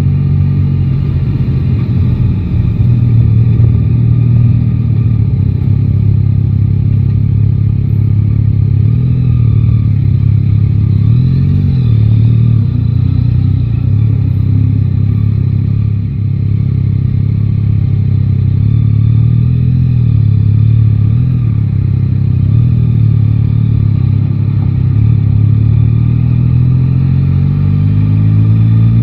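Yamaha Tracer 9 GT's inline three-cylinder engine running at low, fairly steady revs through city riding, its note wavering gently. Near the end the revs rise as the bike accelerates.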